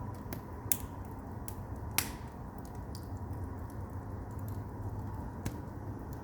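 Firewood burning in a Korean agungi furnace: a steady low rumble of the fire with scattered crackles and a few sharp pops, the loudest about two seconds in.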